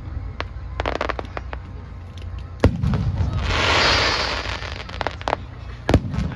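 Fireworks shells bursting overhead: scattered sharp bangs, the loudest about two and a half seconds in, followed by about a second of hissing crackle, then two more bangs near the end.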